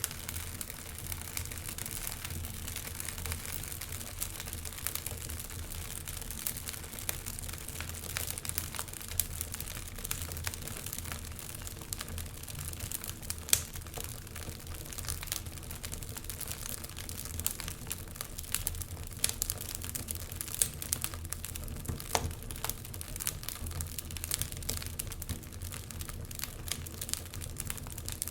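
Wood fire crackling in a fireplace: a steady hiss dotted with frequent sharp pops and snaps, one louder pop about thirteen seconds in.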